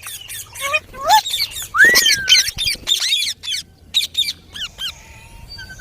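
Pet rose-ringed parakeets calling: a quick run of short squawks and chirps, with one longer gliding call about two seconds in, thinning out near the end.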